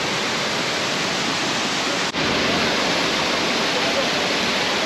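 Waterfall: a steady rush of falling water, with one brief dip about two seconds in.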